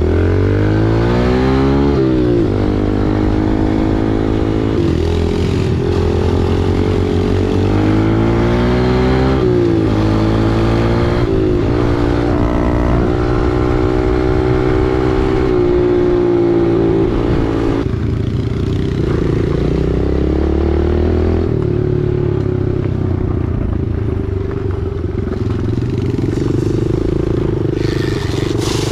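Single-cylinder four-stroke dirt bike engine under riding load, pitch climbing and dropping repeatedly as the rider accelerates and shifts or lets off the throttle. It holds a steady pitch for a few seconds in the middle, then settles to a lower, steadier tone in the last third.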